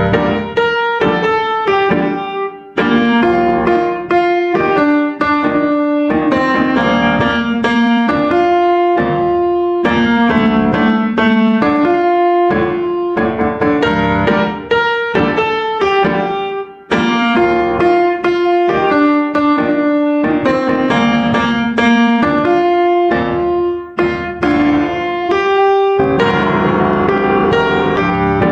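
Background piano music: a melodic piece of quick, repeated piano notes.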